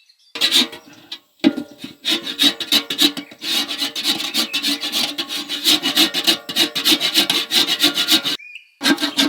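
Fast, rhythmic rasping and rubbing strokes, several a second, stopping briefly about a second in and again near the end.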